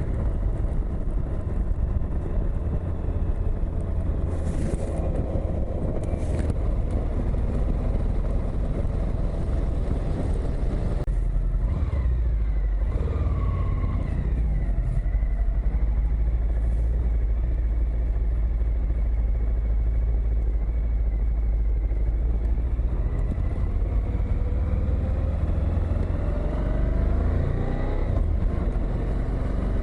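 Suzuki V-Strom motorcycle on the move: its engine runs under a steady rush of wind, and its note rises and falls several times as the revs change, climbing near the end.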